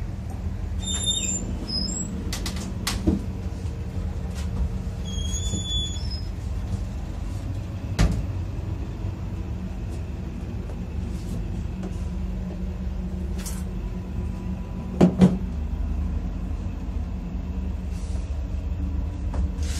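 Steady low rumble of a moving passenger train, heard from inside its toilet compartment. Sharp knocks and clunks break through a few times, with a double knock near the end, and a couple of short high chirps come in the first few seconds.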